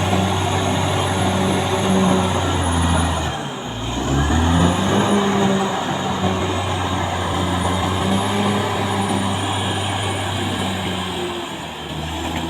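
Caterpillar D6R XL bulldozer's diesel engine running steadily under load. About three and a half seconds in, the engine note dips briefly, then rises back up.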